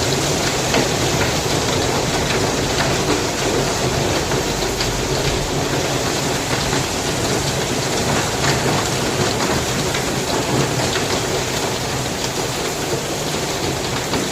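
Heavy rain pouring steadily, with a dense patter of drops hitting surfaces close by, in a windy storm.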